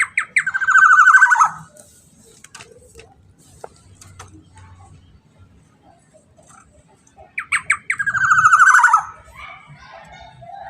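Black-naped oriole (kepodang) giving a harsh, rasping call twice, about seven seconds apart. Each call opens with a few short notes and runs into a buzzy rattle of about a second that drops in pitch at the end.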